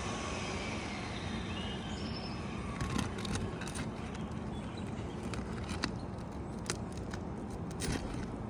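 Steady rumble of a passing aircraft fading overhead, with scattered light clicks and scrapes from handling the asphalt shingles, starting about three seconds in.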